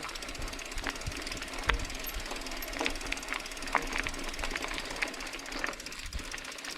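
Mountain bike rolling down a rocky trail: steady tyre noise on loose stones with irregular sharp clatters and knocks from the bike jolting over rocks.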